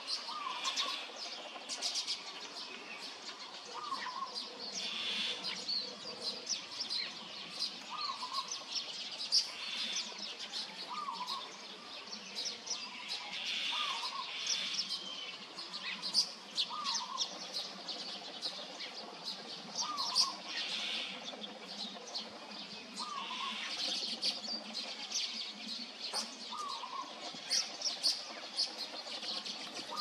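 Birds chirping outdoors: a short call repeating every few seconds over a busy, high-pitched chatter of many small chirps.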